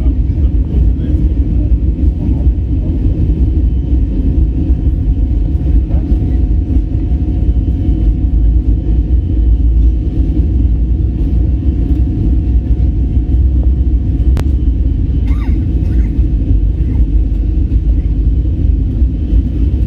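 Boeing 737-400 on takeoff, heard as a loud, steady low rumble of jet engines and airframe with a faint steady hum above it, with one sharp click about two-thirds of the way through.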